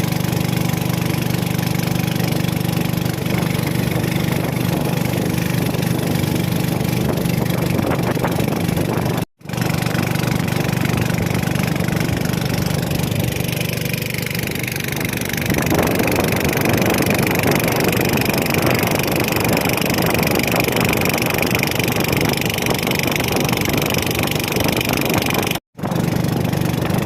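Small fishing boat's engine running steadily under way, with wind and rushing water; the water and wind noise grows louder about halfway through. The sound drops out for a split second twice.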